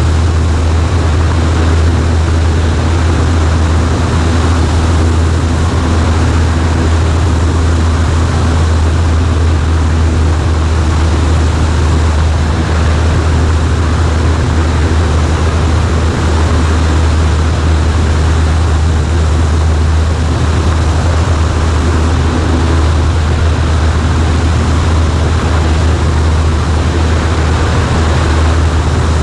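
Cessna 140A's air-cooled four-cylinder engine and propeller droning at a steady speed, with rushing air noise over it.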